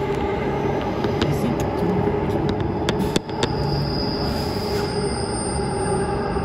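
Transperth B-series electric multiple-unit train running between stations, heard from on board: a steady rumble of wheels on rail with a steady hum. A few sharp clicks come through, and a faint high whine joins about halfway through.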